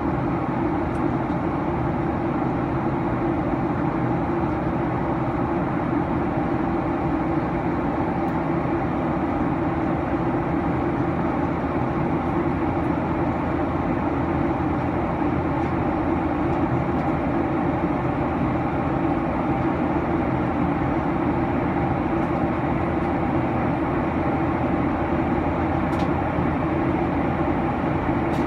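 Steady drone of engine and airflow noise inside a Boeing 737-900 airliner's cabin in flight, even and unchanging.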